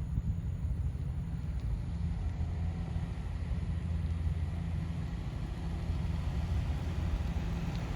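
Helicopter running steadily: a constant low drone of rotor and engine, with no change through the stretch.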